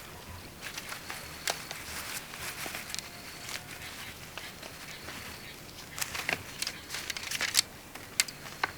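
Scattered light crackling and rustling, with a cluster of sharper clicks about six to seven and a half seconds in.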